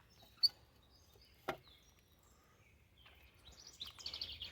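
A songbird singing a quick run of repeated high chirps in the last second or so, over faint background noise, with two short sharp clicks earlier on.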